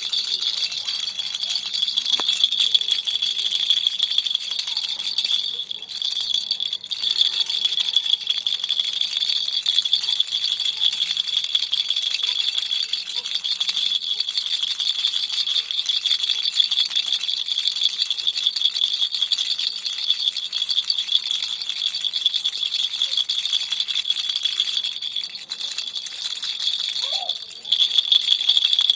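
A baby's toy rattle shaken quickly and continuously, a dense, bright rattling that eases briefly about six seconds in and again a few seconds before the end.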